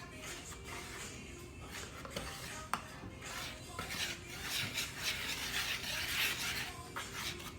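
Spoon stirring and scraping in a mixing bowl, with a single light clink about two and a half seconds in; the scraping gets louder and busier from about four seconds to near the end.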